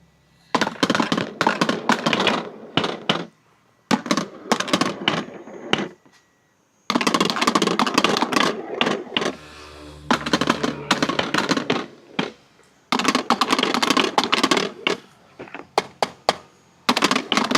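Marbles rolling down a marble-run track, clattering and clicking against it in several spells of rapid rattling, with short pauses between them.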